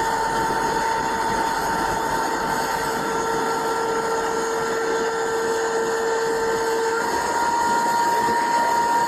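A machine running with a steady whine over a constant hiss; about seven seconds in the whine shifts slightly higher.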